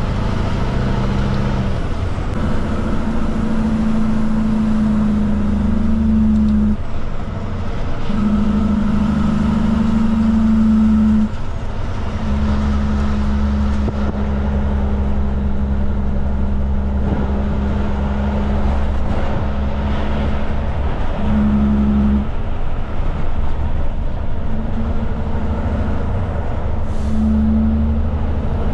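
Kenworth K200 cabover truck's Cummins diesel engine running steadily while the truck drives on the road. The low engine drone stays loud throughout, and its note changes several times.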